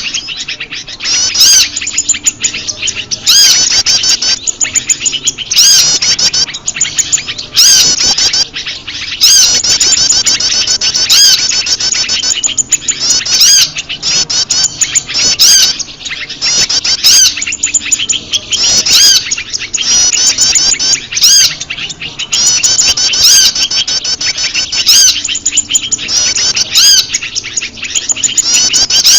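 Bird-lure recording of prenjak lumut calls mixed with a chorus of other noisy small birds: rapid, high chirping phrases overlapping, swelling loud about every two seconds.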